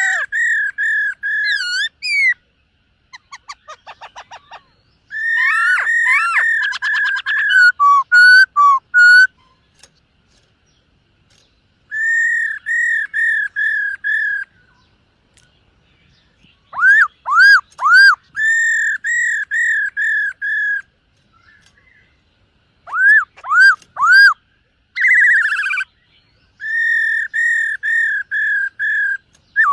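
Black-throated laughingthrush singing: loud, clear whistled phrases of notes repeated about four or five times a second, broken by pauses of one to three seconds between bouts.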